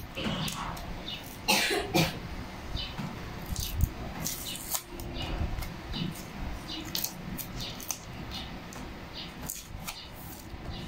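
Irregular light clicks and taps, with a louder cluster about one and a half to two seconds in, over a low background rumble.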